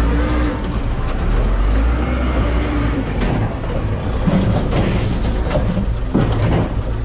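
Backhoe's diesel engine running with a steady low rumble, with a few sharp knocks and clanks of demolition debris in the second half.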